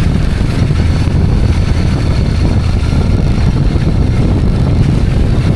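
Steady low rumble of a two-wheeler on the move, wind buffeting the microphone over the engine noise.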